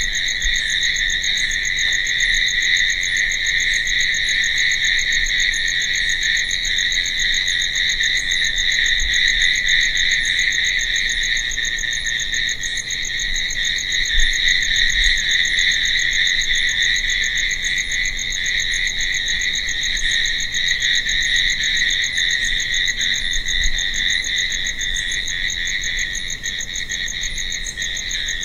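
Dense chorus of crickets chirping, a steady unbroken trill.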